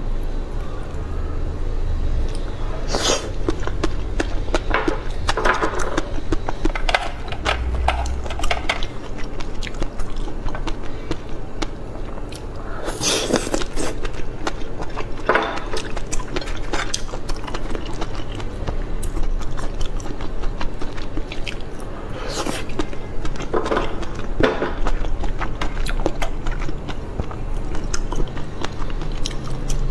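Close-miked eating sounds: biting and chewing of raw oysters topped with fish roe, a stream of irregular wet clicks and smacks, with a few louder sharp ones about 3, 13 and 22 seconds in.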